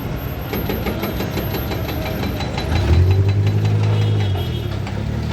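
Heavy diesel engine running with a fast, even clatter. About three seconds in, a deep engine note swells up, rising a little in pitch and then easing back down as it revs.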